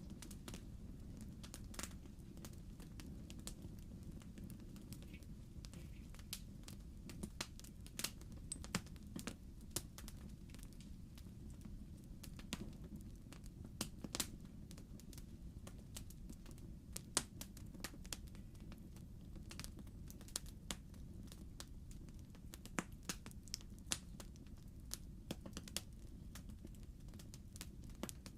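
Wood fire crackling in a fireplace: a steady low rumble of the flames with irregular sharp pops and snaps, a few louder ones scattered through.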